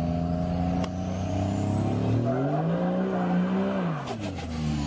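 Truck engine running steadily, then revved once about two seconds in, held high for about a second and a half and let back down.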